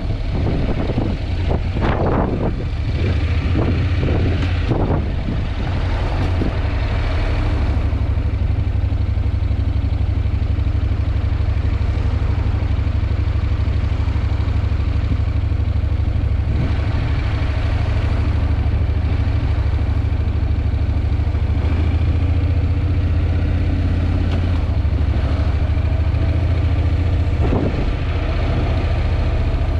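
Honda NC750X's parallel-twin engine running steadily with a low hum, picked up by a helmet or bike-mounted action camera with wind buffeting the microphone. The wind gusts are strongest in the first few seconds.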